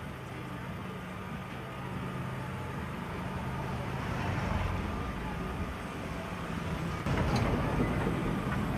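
A motor vehicle's engine running close by, growing louder through the middle and turning suddenly louder about seven seconds in, amid street traffic noise.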